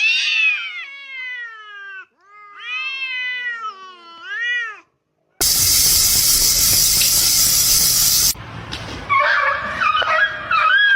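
A cat yowling three drawn-out meows: the first long and falling, the next two rising then falling. After a sudden cut, a loud steady rushing noise lasts about three seconds, and near the end there is a quicker warbling call.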